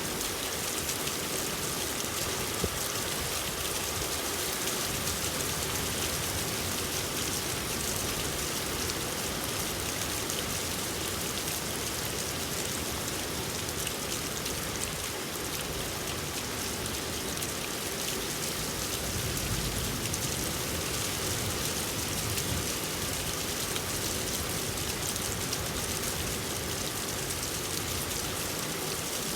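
Steady rain falling: an even hiss of many drops pattering on surfaces.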